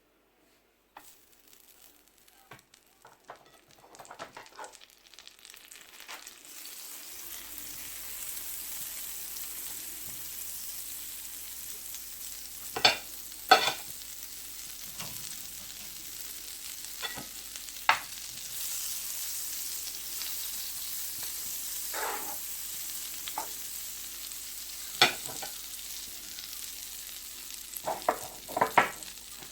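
A few light clicks, then a steady frying sizzle starts in a pan as the honey-garlic glaze is begun, with a utensil stirring and knocking sharply against the pan several times.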